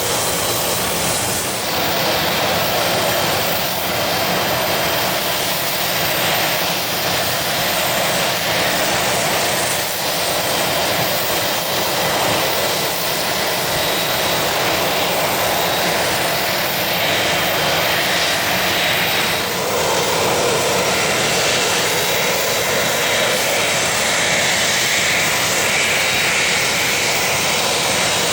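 Business jet's turbofan engines running steadily, a continuous jet rush with a faint high whine.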